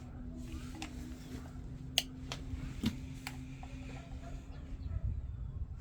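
A few light, scattered clicks and taps from small parts being handled, over a steady low hum that fades out near the end.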